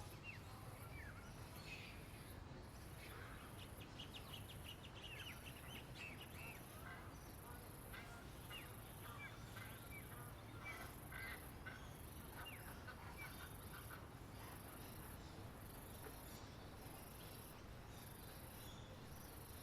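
Faint songbirds chirping: scattered short, quick chirps and trills, busiest in the middle stretch, over a very high, pulsing buzz and a low background rumble.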